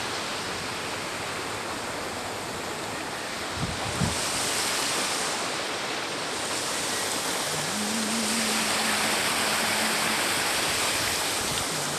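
Steady rushing noise of river water. There are two soft low bumps about four seconds in, and a faint low hum for a couple of seconds after the middle.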